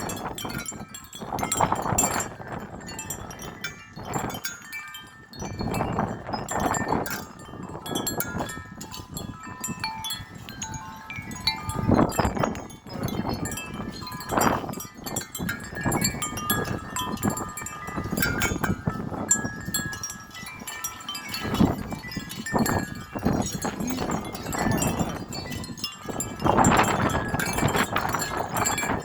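Several metal wind chimes ringing and clanging continuously in strong, gusty wind. Wind rushes over the microphone in repeated gusts, with the biggest swells about halfway through and near the end.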